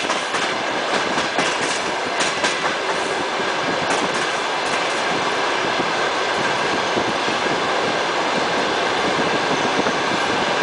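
Express passenger train's wheels running on the rails as it pulls out of a station, heard from inside a coach at the window. Sharp clacks over rail joints and points in the first few seconds, then a steady wheel noise.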